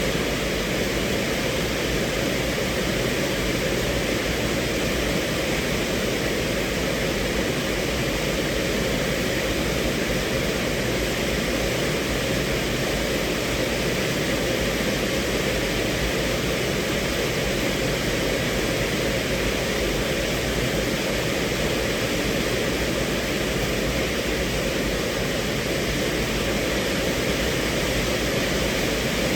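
Rain falling on a car's roof and windows, heard from inside the cabin as a steady, even hiss.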